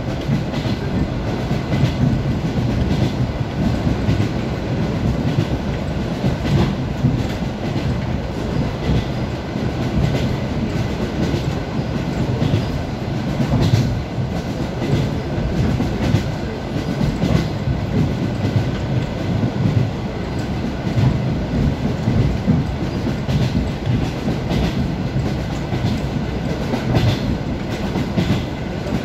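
ED9M electric multiple unit running at speed, heard inside the passenger car: a steady rumble with the wheels knocking over rail joints throughout.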